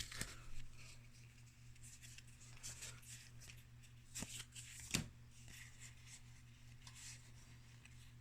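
Faint rustling and soft clicks of trading cards being handled and flipped one by one, with the sharpest snaps about four and five seconds in, over a steady low electrical hum.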